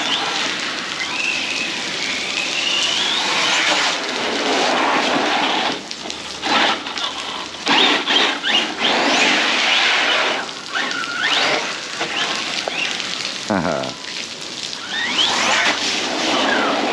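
Arrma Big Rock 6S RC monster truck's brushless motor whining up and down in pitch as it is driven hard, over a steady wash of splashing water and rain.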